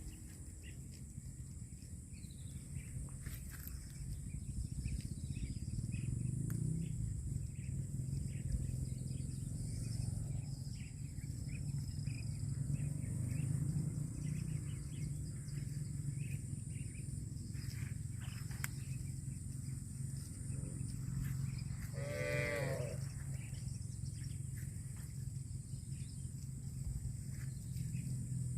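Cattle mooing in low, drawn-out calls, with one shorter, higher, wavering call about two-thirds of the way through.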